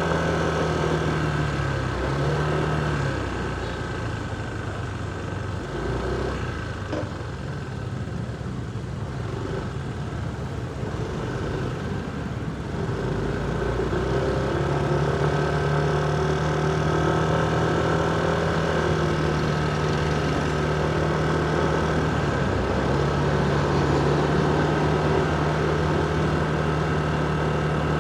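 Motorcycle engine running as the bike rides through city traffic, a steady engine hum that dips briefly in pitch twice. It eases off and goes quieter for several seconds in the first half, then picks up and holds steady from about halfway.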